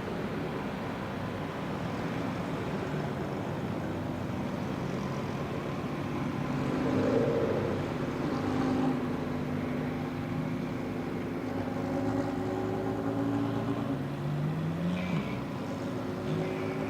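Car engines running at low revs, steady throughout, with one engine revving up briefly near the end.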